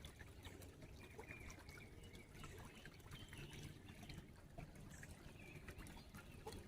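Faint trickle of creek water, with a few small clicks over it.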